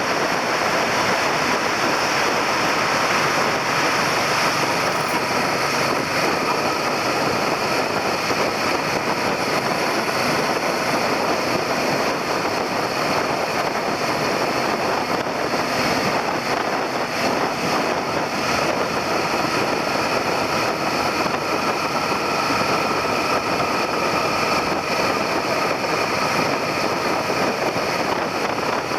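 Suzuki SV400 V-twin motorcycle engine running at steady cruising speed, heard through heavy, even wind and road rush on a handlebar-mounted camera.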